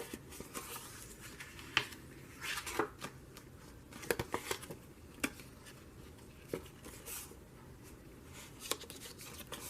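A sheet of paper being folded and creased by hand: scattered soft rustles and light taps.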